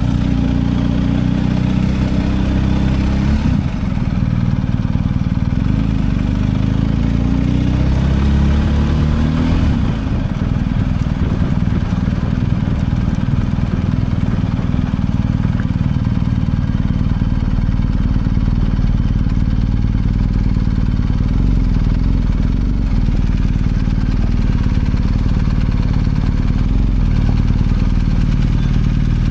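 BMW R1250 GS Adventure's boxer-twin engine under way: its pitch drops with a gear change about three seconds in, climbs steadily as the bike accelerates, drops again with another shift about ten seconds in, then holds a steady cruising note.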